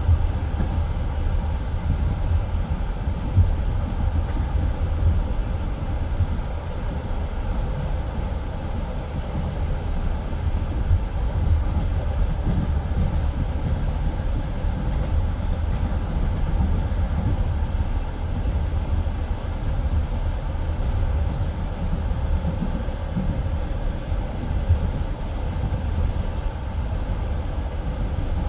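Passenger train running at speed: a steady low rumble of the carriage's wheels on the rails, with a few louder knocks.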